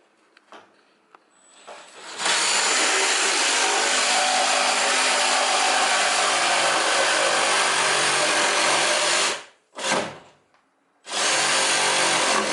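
Electric reciprocating saw running at full speed: one long run of about seven seconds, a brief blip, then running again near the end.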